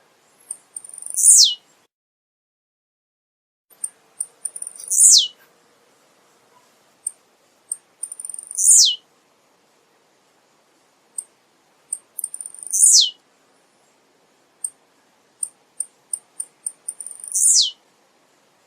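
Male blue-black grassquit (tiziu) singing its short song five times, about every four seconds. Each song is a brief high note followed by a quick downward sweep. Short high ticks fall between the songs.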